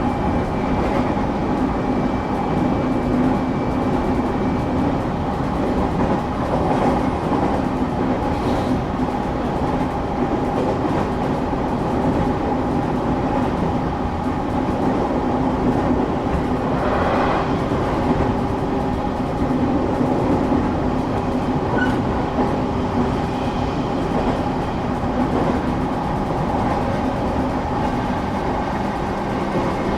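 Cabin noise inside a moving passenger train: a steady rumble of wheels and running gear with a constant hum under it.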